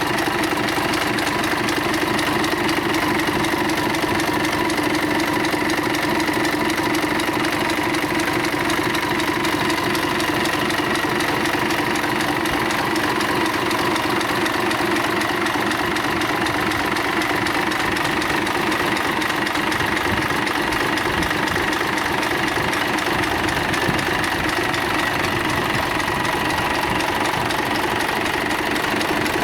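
Isuzu UM6HE1TCX six-cylinder turbocharged marine diesel engine running at a steady speed, with an even diesel clatter and a steady hum.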